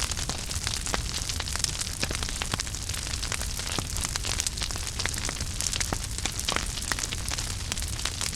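Wood fire burning in a fireplace, with a steady low rumble and many small crackles and pops throughout.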